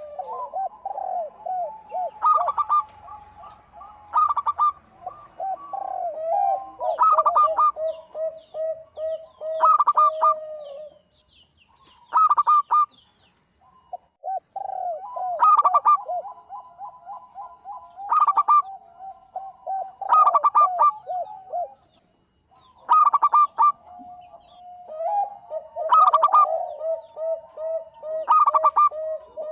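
Zebra dove (perkutut) in full song: a bright high cooing note repeating every two to three seconds over runs of quick lower rolling coos, with brief pauses twice.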